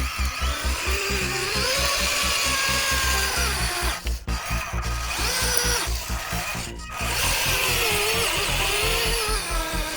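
Small DC electric motors of homemade RC model tractors whining, their pitch rising and falling as they run, with two brief breaks about four and seven seconds in.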